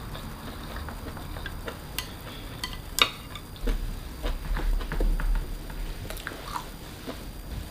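Close-up eating sounds: chewing with scattered small clicks and taps, and one sharp click about three seconds in.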